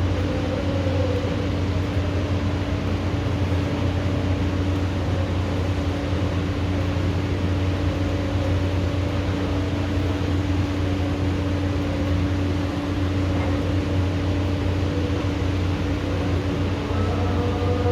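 Steady hiss of thunderstorm rain with a constant low machine hum underneath. Faint wavering tones come in near the end.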